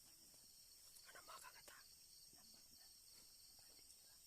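Faint night insects, crickets trilling steadily with an even pulsing chirp, and a brief soft rustle about a second in.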